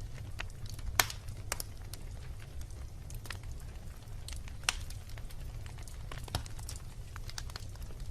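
Wood fire crackling: irregular sharp pops and snaps, the two loudest about a second in and just before five seconds, over a steady low rumble.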